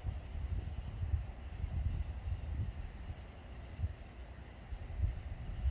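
Wind buffeting the microphone in uneven gusts, over a steady high-pitched trill of crickets or other night insects.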